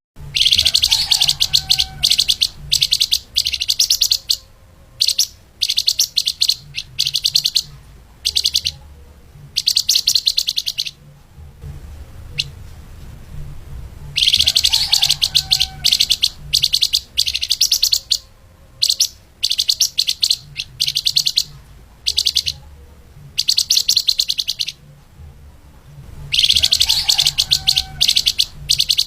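Flamboyan (lemahan) songbird singing fast, densely packed high trills in bursts of a second or two with short pauses between, over a steady low hum. The same run of phrases comes round again about every 13 seconds, as in a looped tutor recording.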